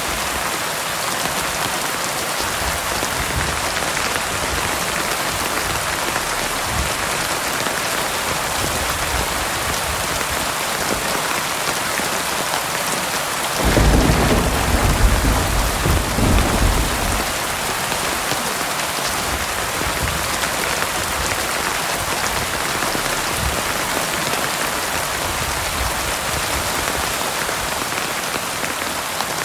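Heavy rain falling steadily, with a roll of thunder rumbling for about three seconds near the middle.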